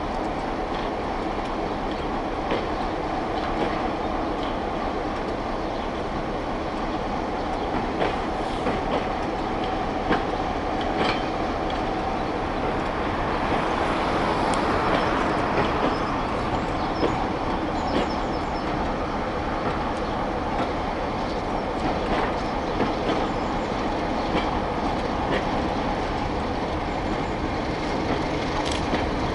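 Class 31 diesel-electric locomotive running under power as it shunts a rake of coaches slowly, its engine a steady drone that swells louder about halfway through, with wheels clicking over rail joints at intervals.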